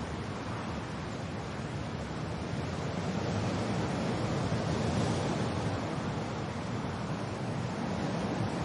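Steady wind and rain noise, swelling slightly about halfway through and then easing.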